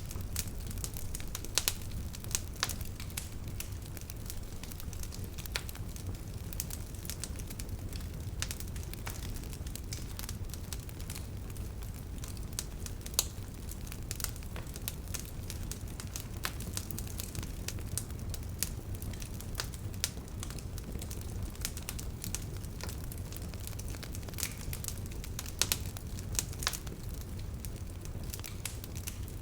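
Wood bonfire burning: irregular sharp crackles and pops over a steady low rumble of the flames.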